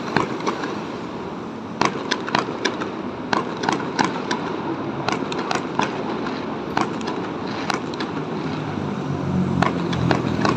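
Fireworks going off: many sharp bangs and cracks at irregular intervals, several a second at times, over a steady background din. A low hum grows near the end.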